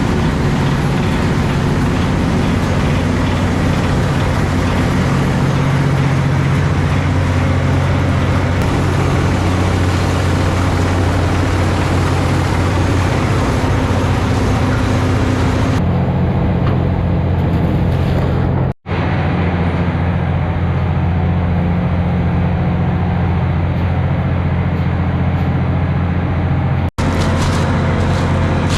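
Prawn trawler's engine running at a steady drone. The sound cuts out briefly twice in the second half.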